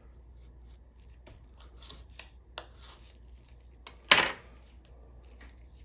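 Raw chicken thigh and skin being handled and trimmed on a cutting board: a string of small clicks and rustles, with one sharp, much louder crack about four seconds in.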